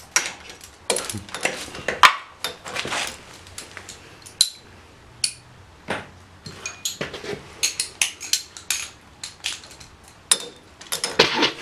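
Metal tools and engine parts clinking and clattering while the pit bike engine is being worked on: irregular sharp clicks and knocks, some with a brief metallic ring, the loudest about two seconds in.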